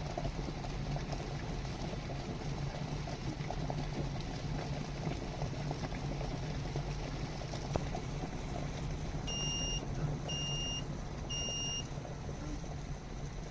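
Electric kettle heating water at or near the boil, a steady bubbling noise, then three short high beeps about a second apart from its electronic controls, signalling that the water has boiled.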